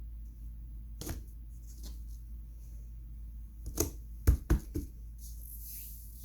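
Small hard toys being handled, giving a few scattered clicks and then a quick cluster of three or four louder clacks just past the middle, over a steady low hum.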